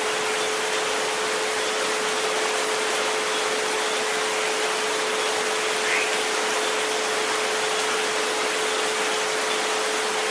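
Steady rain hiss with a pure, sustained tone at about 432 Hz held over it, and a fainter second tone just above.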